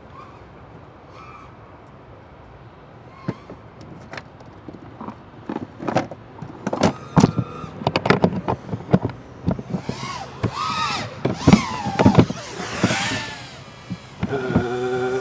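A 5-inch FPV quadcopter with EMAX ECO II 2306 motors flying, heard as a string of sharp clicks and knocks followed by motor whine that rises and falls as the throttle is worked.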